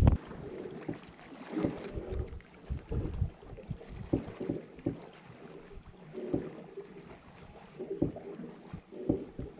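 An inflatable kayak being paddled: a short splash and knock from the paddle roughly every second, with water sloshing against the hull.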